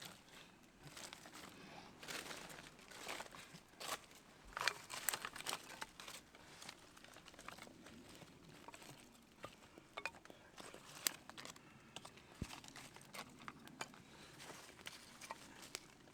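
A small feather-stick kindling fire that has just caught, crackling with irregular sharp snaps and crinkling rustles. The crackles come most thickly in the first few seconds.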